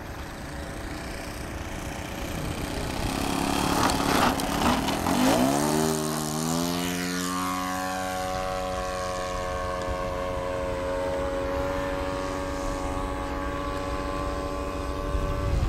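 Radio-controlled model airplane's O.S. FS-52 four-stroke glow engine in flight: it grows louder as the plane comes close, drops in pitch as it passes about five seconds in, then drones at a steady pitch as it flies on.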